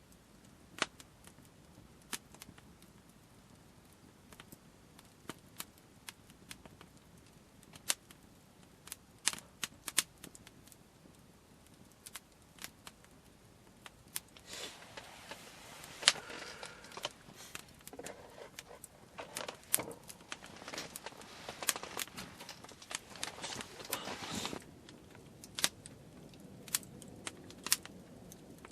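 Wood fire crackling, with scattered sharp pops a second or two apart. For about ten seconds in the middle, a denser, louder stretch of crackling and rustling noise joins in.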